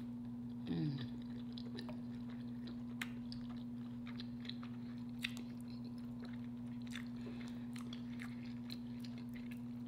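Close-up mouth sounds of a person chewing a bite of chili cheese hot dog: irregular wet clicks and smacks, with a short falling "mmm" about a second in. A steady low hum runs underneath.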